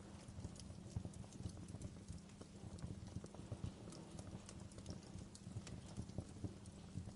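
Wood fire crackling in a fireplace: a steady low rumble of burning under frequent irregular pops and snaps.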